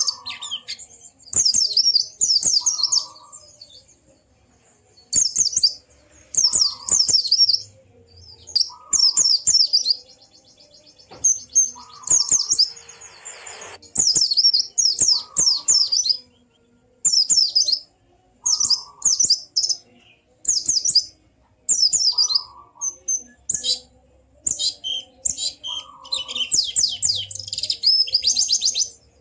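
Pleci (white-eye) singing its gacor 'ngalas' song. Short bursts of high, fast chirping warbles repeat every second or two, and a longer rapid trill comes near the end.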